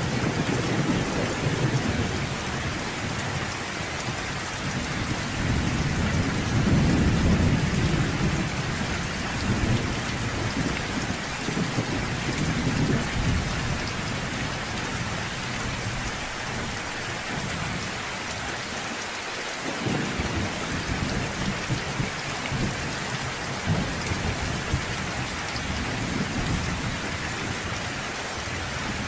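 Steady rain falling, with low rolling thunder that swells and fades several times.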